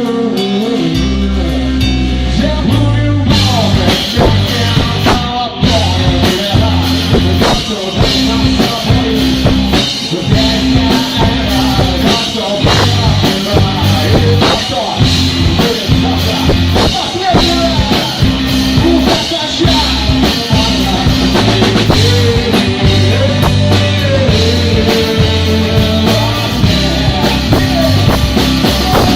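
Rock music with a drum kit keeping a steady beat, guitar and a singing voice.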